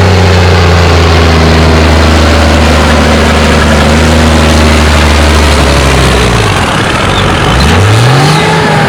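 Oliver 1955 tractor with a swapped-in Cummins diesel pulling the sled under full load, its engine note steady and loud. About six seconds in the revs sag and fall away as the pull ends, then climb again near the end.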